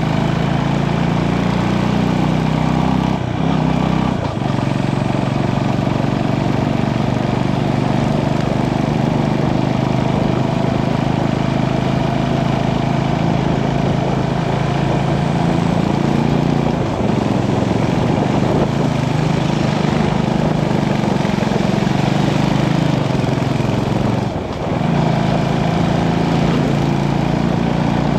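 Motorcycle engine running as the bike is ridden, its pitch rising and falling, with a brief dip three times.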